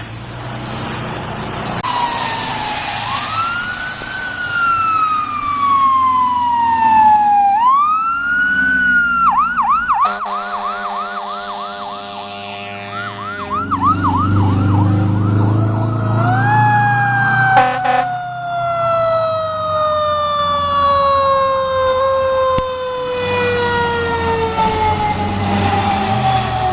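Fire truck sirens passing: a wail that climbs and sinks slowly, switching to a rapid yelp partway through. A steady horn blast comes over the yelp, and a heavy diesel engine passes. A long, slowly falling wail fills the second half.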